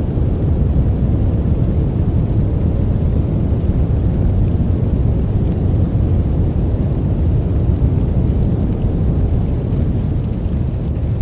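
Steady, deep rumbling noise of a sleep white-noise track, weighted heavily toward the low end like brown noise, with no breaks or distinct drops.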